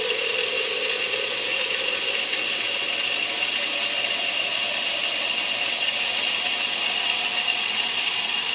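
Kitchen tap running steadily into a coffee pot as it is filled with cold water.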